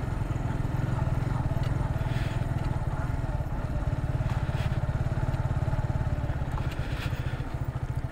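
Motorcycle engine running at low revs with a steady throb, easing off slightly near the end.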